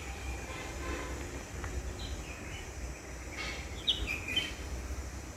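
Birds calling outdoors, with a few short chirps about two to four seconds in, over a steady low background rumble.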